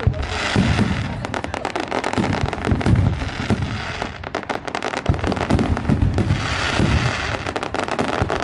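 Fireworks going off: a dense, unbroken run of cracks and bangs with deep booms underneath.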